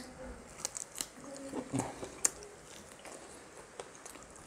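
Close-miked biting and chewing on a piece of home-made fried chicken, with scattered sharp clicks and small mouth smacks.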